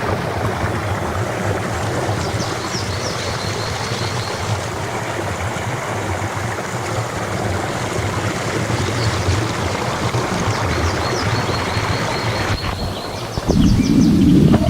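Rushing stream water, a steady hiss, with a bird giving short repeated high notes in a trill, twice. Near the end the sound changes abruptly to a louder, deeper rushing.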